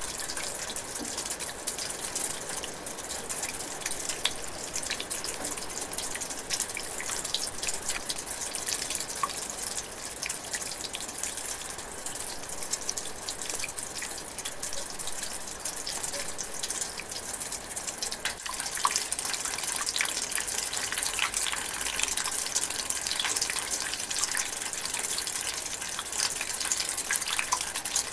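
Steady light rain, with dense pattering and many small drops ticking and dripping.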